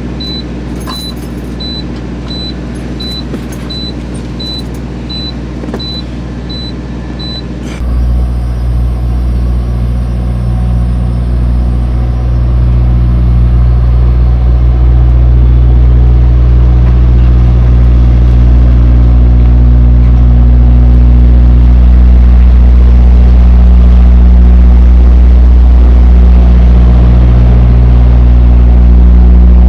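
Tractor-trailer's diesel engine heard from the cab. For the first eight seconds it runs with a steady low rumble under a regular high-pitched beep, a little under two beeps a second. Then the rumble abruptly gets much louder and keeps building for several seconds before holding steady.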